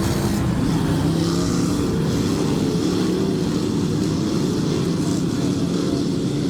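Several dirt-track race cars running together at speed, a steady loud drone of overlapping engines whose pitches rise and fall.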